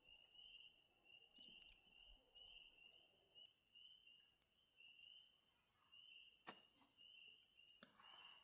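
Faint forest ambience: a high chirp repeating evenly about twice a second, with scattered sharp clicks and a louder crack about six and a half seconds in.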